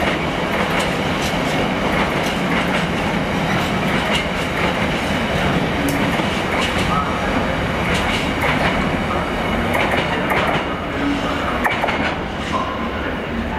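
Container freight train's flat wagons rolling past on the rails: a steady rumble and clatter of wheels with repeated clicks over rail joints, and a couple of brief wheel squeaks. The sound eases off near the end as the last wagon passes.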